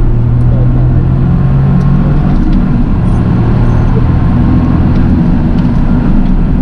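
Toyota GR Yaris's three-cylinder engine running steadily while driving. Its note steps lower about two and a half seconds in.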